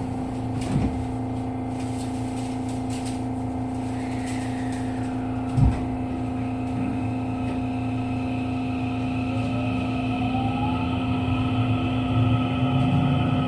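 Inside a JR West 207 series commuter train with its original, unmodified traction motors, just after the doors close. Steady equipment hum, a single thump about five and a half seconds in, then from about nine seconds a rising inverter and motor whine as the train starts to pull away.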